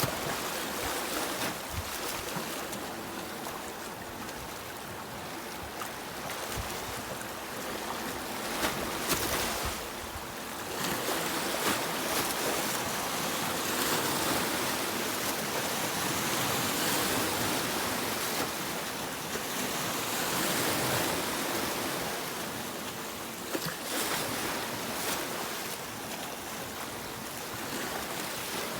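Sea waves breaking and washing up a beach: a continuous rushing surf that swells louder for several seconds in the middle and eases back, with brief crackles as the water breaks.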